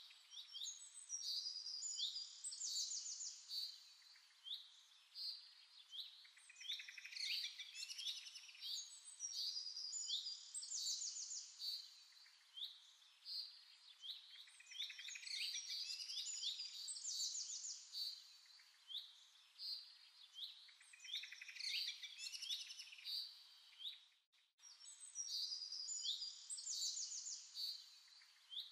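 Birds chirping and singing, many quick chirps and trills overlapping, with a break of a fraction of a second late on.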